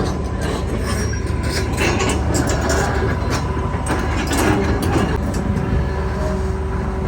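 Hitachi ZX330LC-3 crawler excavator running, a steady low drone with scattered metallic clanks and knocks over it.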